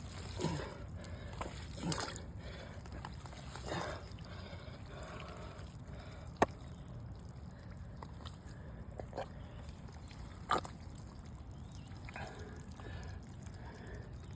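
Water trickling, dripping and splashing in small bursts as hands and a stick probe shallow muddy water for a snapping turtle. There is one sharp click about six seconds in.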